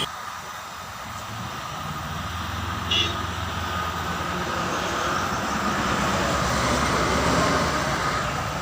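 A vehicle engine running steadily, growing somewhat louder toward the end, with one short metallic clink about three seconds in.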